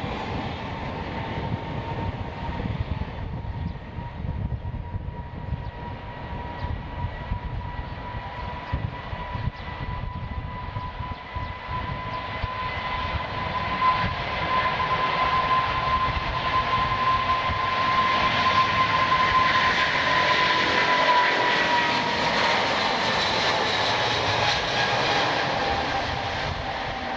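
Boeing 777-281ER jet engines passing: a steady whine over a noisy rumble grows louder to a peak about twenty seconds in. The whine then drops in pitch and fades as the aircraft goes by.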